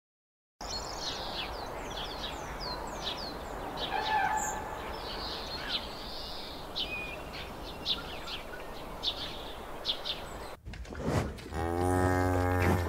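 Many short, high, falling chirps of small birds over a steady outdoor hiss. About 11 seconds in, a humped zebu-type cow gives a long, loud moo that runs on to the end.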